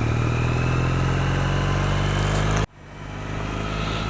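2008 Triumph Bonneville's parallel-twin engine running under way, its pitch rising slowly. About two and a half seconds in, the sound drops out abruptly, then fades back in.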